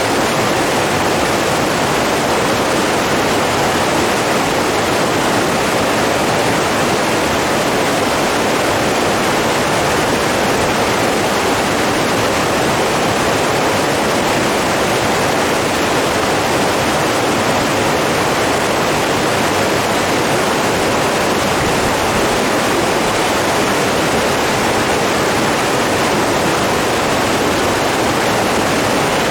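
Steady rush of running water, even and unbroken, with no surges or pauses.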